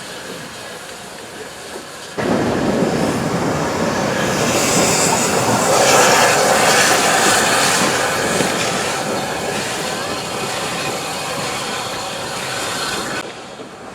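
Train running on the rails, with wheels clattering. The sound comes in suddenly about two seconds in, grows loudest near the middle, eases off, and cuts off abruptly near the end.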